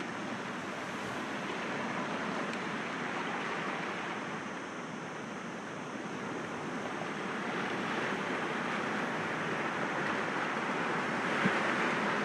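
Sea waves washing against rocks: a steady rush of surf that swells and ebbs slowly, growing louder toward the end.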